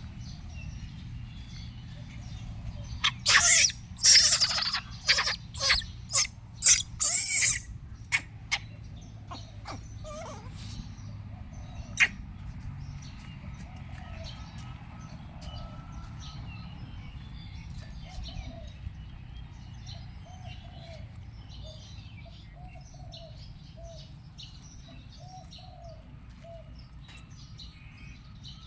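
Repeated soft chirping calls from a small animal, with a run of loud, noisy bursts a few seconds in and a single sharp click about twelve seconds in.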